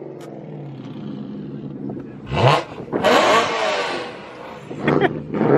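BMW E92 M3's V8 idling, then revved hard about two seconds in. The engine note climbs sharply into a loud exhaust blast and falls back, and there is another quick rev near the end.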